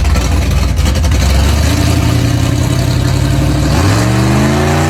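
Gasser hot rod's engine running loud with a deep rumble, then revving up in a rising pitch about four seconds in.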